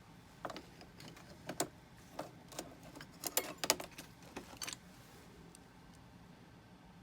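Light metallic clicks and taps of small jeweller's hand tools being handled, a scattered run of a dozen or so that stops about two seconds before the end.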